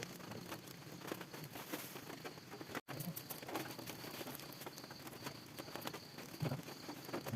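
Rain pattering in the forest, many small irregular drops, with a brief sudden dropout a little under three seconds in.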